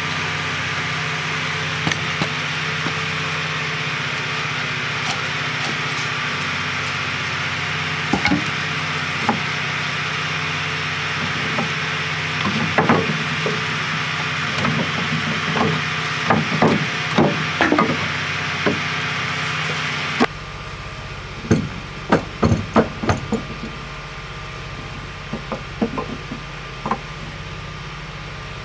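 Hammer blows on wood, coming in irregular clusters of sharp knocks, over a steady machine hum. The background hum changes abruptly about two-thirds of the way through.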